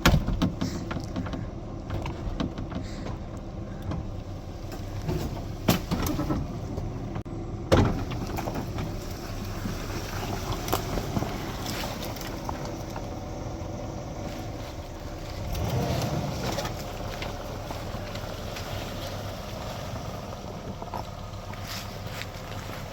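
Old GMC Z71 pickup's engine running steadily as it is driven off-road, with several sharp knocks from the truck's body and suspension over the rough ground, the loudest about eight seconds in. The engine swells briefly just past the middle.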